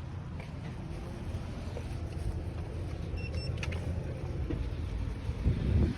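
Wind rumbling over the microphone with road noise while riding an Aovo Pro ES80 electric scooter, swelling louder just before the end. A brief high double beep sounds about halfway through.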